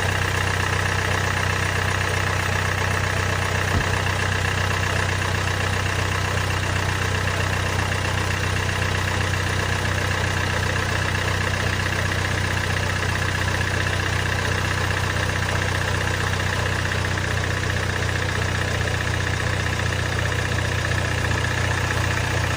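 Range Rover Velar engine idling steadily, with a constant high-pitched note over a low hum; the owner asks whether this noise is a bad timing chain.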